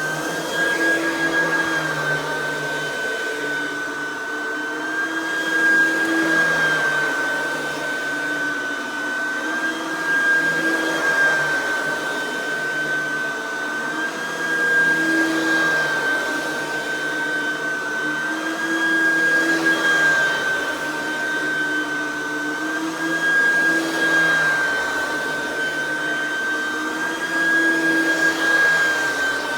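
Oreck XL9100C upright vacuum running, its 3.2-amp direct-air motor with an aluminium fan giving a steady high whine. The level swells and eases every four seconds or so.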